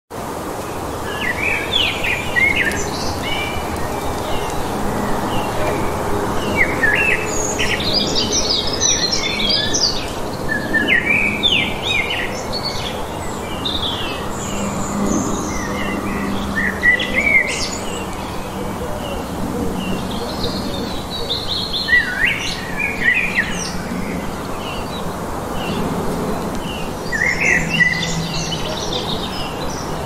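Small birds chirping and singing in quick clusters of short notes every second or two, over a steady background hiss.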